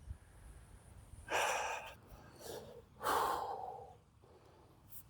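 A man's breathing: two loud breathy gasps or exhalations, about a second and a half apart, between quieter breaths.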